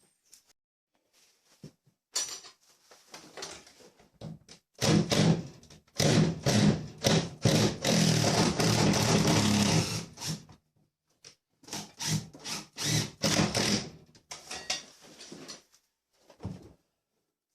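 Handheld power drill running in bursts: a few light knocks first, then one long run of about six seconds in the middle, then several short bursts.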